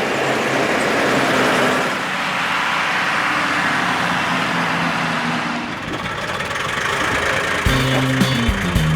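Mercedes-Benz L 311 truck's six-cylinder diesel engine running steadily. Near the end, guitar music comes in over it.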